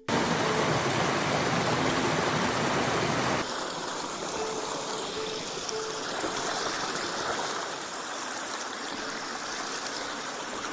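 Creek water running in a steady rush, which drops a little in level about three and a half seconds in.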